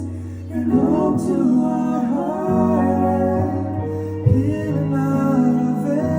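A song with singing over guitar accompaniment, the voice holding and sliding between sustained notes.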